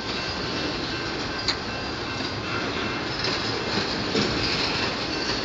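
Freight train of loaded autorack cars rolling past: steady wheel-on-rail rumble with a faint, steady high wheel squeal, and a sharp click about a second and a half in.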